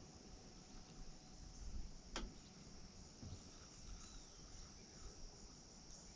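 Faint, steady, high-pitched insect chorus, with one sharp click about two seconds in.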